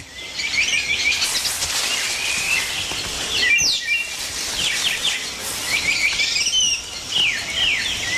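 Rainforest canopy chorus: many short, high chirping calls, some sweeping down in pitch, over a steady high hiss of insects.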